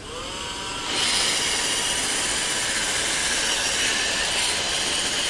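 iRobot Roomba 650 robot vacuum starting a cleaning run: its vacuum motor and brushes spin up with a rising whine over about the first second, then run steadily with a hissing whir.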